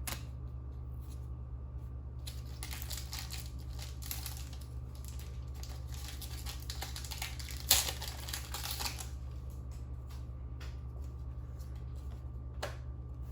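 Rustling and crinkling of a foil trading-card booster pack and cards being handled, with a sharp click about halfway through, over a steady low electrical hum.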